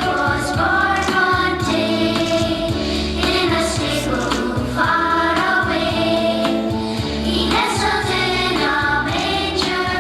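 A choir singing over instrumental backing music.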